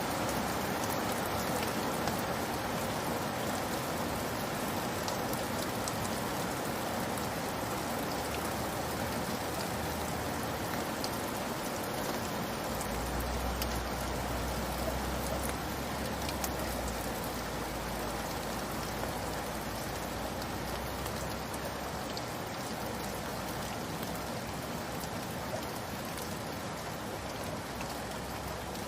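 Steady rain falling, an even hiss dotted with the ticks of single drops. A low rumble rises briefly in the middle.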